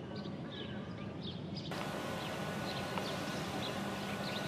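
Faint ambience with a low hum and distant small birds chirping. The background hiss steps up abruptly a little under two seconds in.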